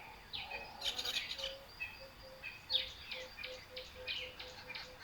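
Wild birds calling, with quick sharp falling chirps. From about a second and a half in, a low note repeats steadily at about four a second.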